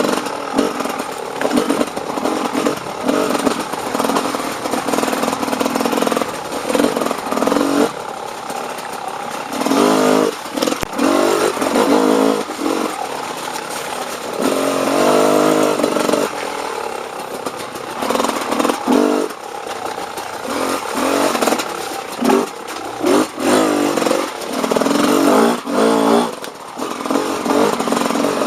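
Off-road dirt bike engine revving up and easing off again and again while riding trail, with short clattering knocks between the revs.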